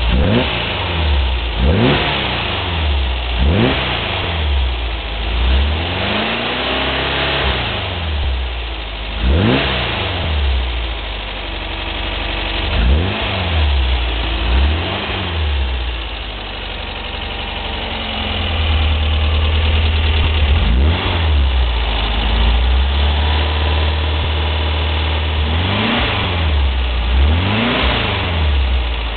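Bus engine idling on a test run, blipped again and again with the throttle: each quick rev rises and falls back to idle, about a dozen times, with a longer steady stretch in the middle. The belt slip has been sorted and the blips are to check for movement.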